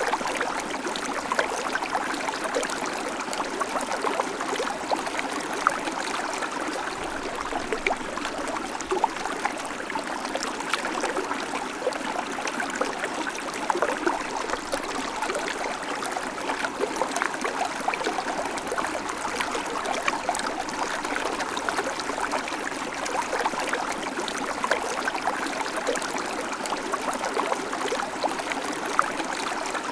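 Babbling creek: shallow water running steadily over stones, full of small splashes and trickles, with no deep rumble.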